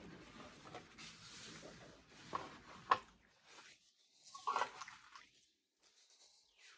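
Faint eating sounds: chewing and small mouth noises, with a few sharp clicks and short rustles of food being handled.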